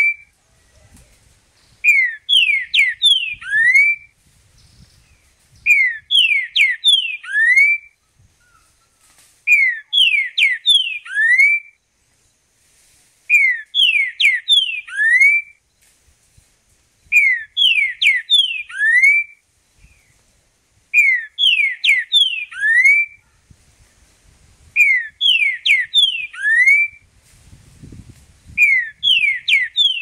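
Green-winged saltator (trinca-ferro) singing: a loud phrase of several quick whistled notes ending on a rising note, about two seconds long, repeated every three to four seconds.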